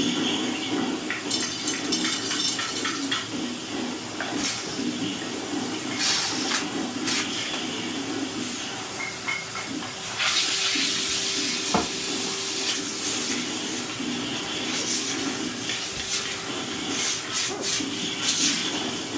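Henry cylinder vacuum cleaner running with a steady suction rush, with scattered sharp clicks and clatters as bits of snack food are sucked up through the hose.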